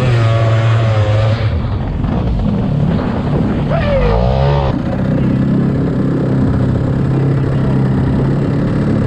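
Kawasaki JS300 single-cylinder two-stroke jetski engine in a micro jet boat running. Its pitch rises and falls for the first second or so, a higher note falls away briefly about four seconds in, and then it holds a steady speed.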